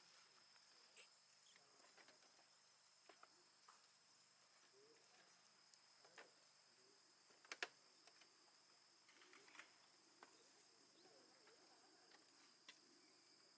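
Near silence, with faint steady high-pitched insect chirring, scattered soft clicks and one sharper knock about halfway through.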